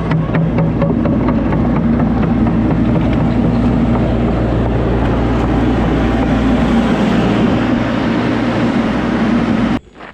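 Heavy diesel work machinery running steadily at close range, with some clanking in the first second or so. The sound cuts off suddenly near the end.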